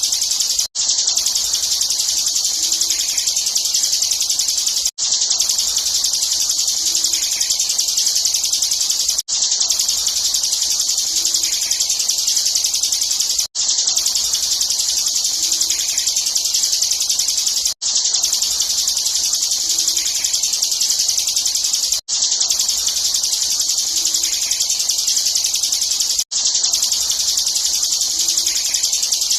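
Bar-winged prinia (ciblek) singing non-stop in a dense, high-pitched chattering stream, as a looped tutor recording for training songbirds. The loop repeats about every four seconds, with a brief drop-out at each join.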